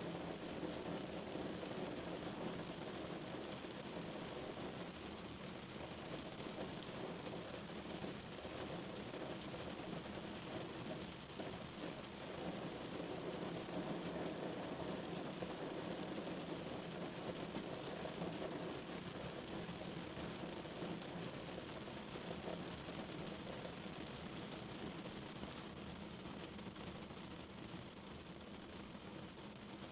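Steady rain falling on a car's body, a dense even patter that eases slightly near the end.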